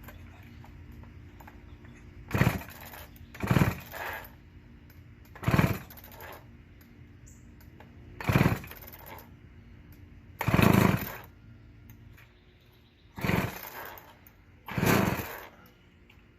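Old McCulloch two-stroke chainsaw being pull-started: seven quick yanks of the recoil starter, each turning the engine over in a short rasping burst a second or two apart. The engine does not settle into running.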